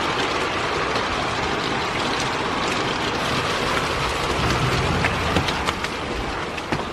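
Heavy rain falling, a steady hiss with a few sharper drop taps in the second half.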